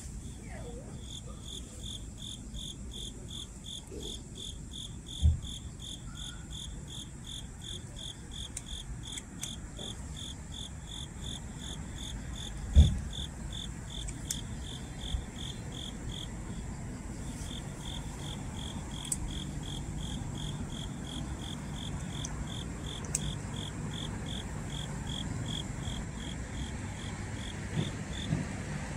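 A cricket chirping in a steady, even rhythm, with a short break about midway. A low hum sits underneath, and a few sharp knocks break in, the loudest about halfway through.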